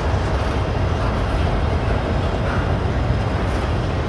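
Double-stack container train rolling past: a steady rumble of steel wheels on the rails under loaded well cars.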